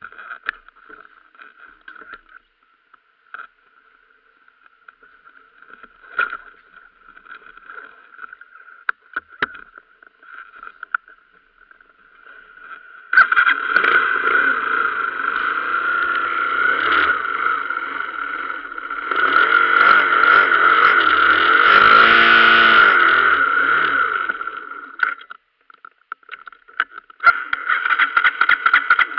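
Motorcycle engine starting suddenly about halfway through, then running while the bike stands still, louder for a few seconds after that and cutting out briefly near the end before picking up again. Before it starts there are only faint clicks and knocks over a thin steady whine.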